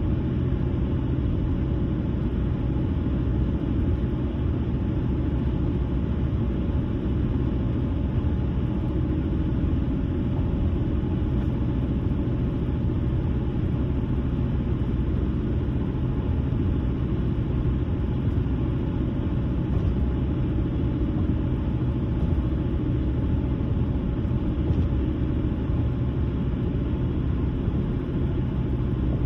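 A car driving at a steady speed: tyre and engine noise as a constant low rumble.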